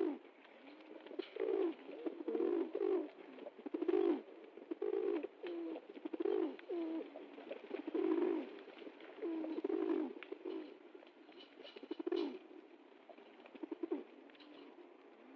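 Pigeons cooing: a run of low, throaty coos repeating about every half second, which thins out over the last few seconds.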